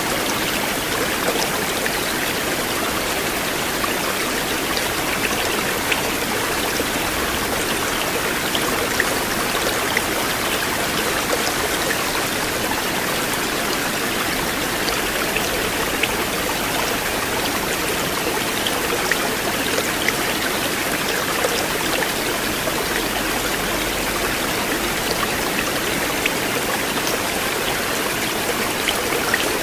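River water flowing steadily over a stream bed, an even rushing with small splashes and drips scattered through it.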